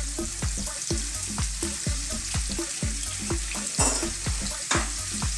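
Sliced onion, ginger and garlic sizzling in hot sunflower oil in a wok-type pan: a steady hiss full of rapid small crackles and pops.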